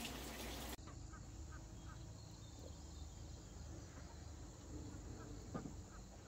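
Faint outdoor background with a few short, high chirps scattered through it and a single light click near the end.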